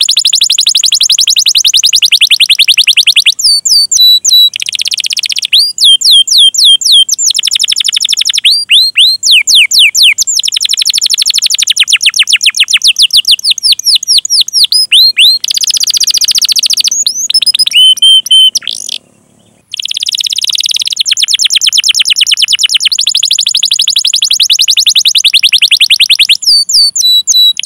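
Domestic canary singing at full volume. Fast rolling trills of rapidly repeated notes alternate with runs of sharp sweeping "cuit cuit" chirps, and the song breaks off briefly about two-thirds of the way through.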